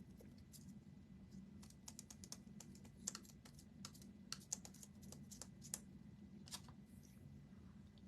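Faint, irregular clicking of typing on a computer keyboard, in short clusters, over a low steady hum.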